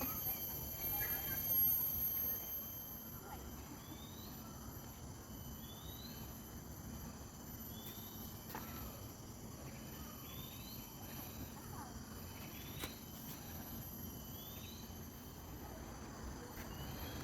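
Steady high-pitched insect drone, with a short rising chirp repeating about once a second.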